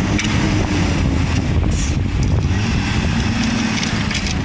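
A motor vehicle's engine running loudly and steadily, with a few faint clicks.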